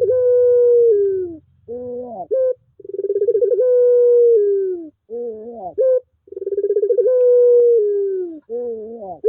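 Puter pelung dove cooing repeatedly, a lure call meant to get a silent puter to start singing. Each call is a short swooping note followed by a long, drawn-out coo that pulses as it begins and sinks in pitch at the end; about three calls in a row.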